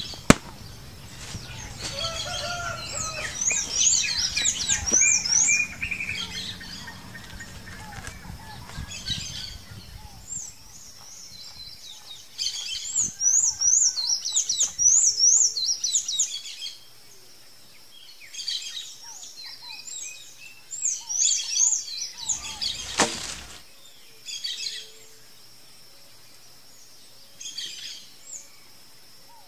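Wild birds chirping in repeated bursts of quick, high, up-and-down notes, with a short rush of noise about two-thirds of the way through.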